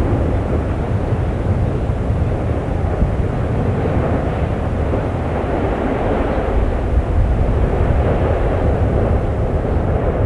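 Steady, deep roar of an erupting volcano, even throughout with no single blasts or breaks.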